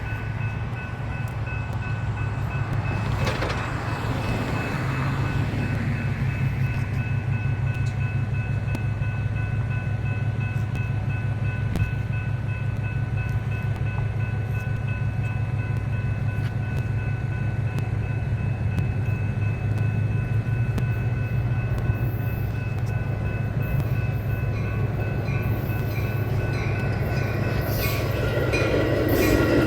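Diesel locomotive running with a steady low rumble. Rail and wheel noise builds sharply near the end as the train draws close.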